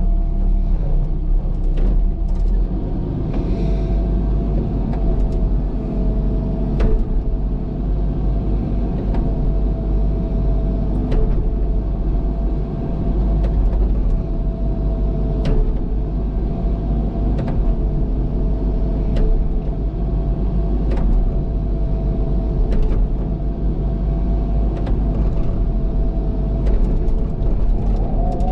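Heavy earthmoving machine's diesel engine running steadily under work, with a low rumble and a steady whine over it. Short sharp clicks or knocks come about every two seconds.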